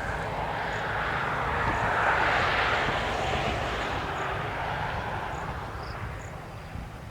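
Distant aircraft passing over: a rushing engine drone that swells about two seconds in and fades away near the end.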